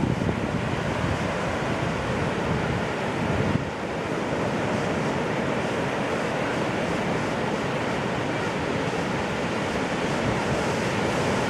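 Ocean surf washing and breaking steadily, with wind buffeting the microphone.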